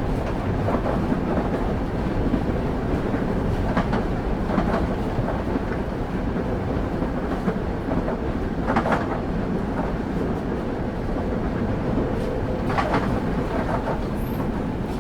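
Railway carriage wheels running on the track, heard from on board a moving passenger train. A steady low rumble is broken by a few sharper clacks or rattles about four, nine and thirteen seconds in.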